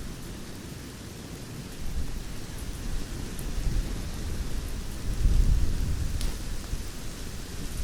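Campfire burning: a low, rumbling roar of flames with a few sharp crackles and pops, the clearest about six seconds in.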